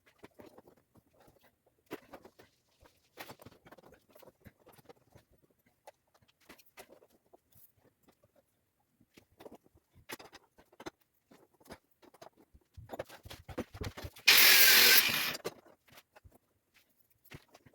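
Scattered light clicks and scrapes of hand work on steel rebar and tie wire, with one loud, harsh rasp lasting about a second near the end.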